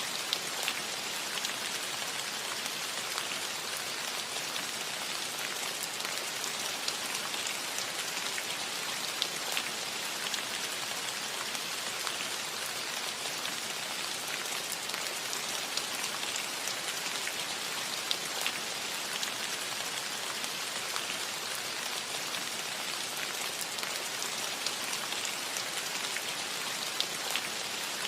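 Steady rain on a metal roof: an even hiss of rainfall with many sharp ticks of individual drops striking the metal.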